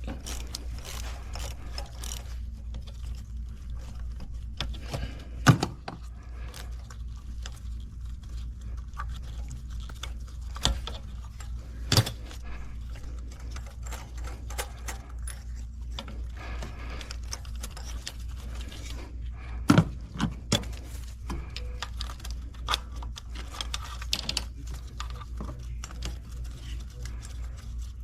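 Hand tools clinking and knocking on metal while an old spark plug is taken out of the engine, with sharp clicks now and then: the loudest come about 5 s, 12 s and 20 s in. A steady low hum runs underneath.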